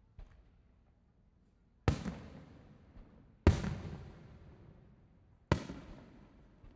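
Aerial fireworks shells bursting: three loud booms about a second and a half to two seconds apart, each trailing off in a rolling rumble, with fainter pops between them.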